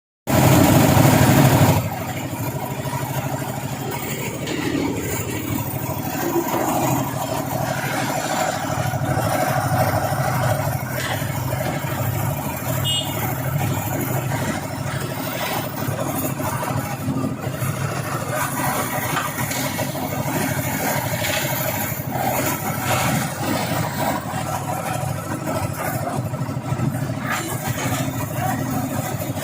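An engine running steadily, louder for the first second and a half.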